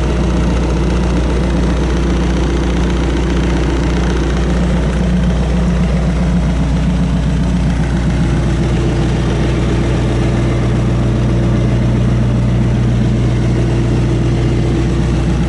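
Diesel engine of a John Deere 5115ML tractor running steadily, its tone shifting slightly about halfway through.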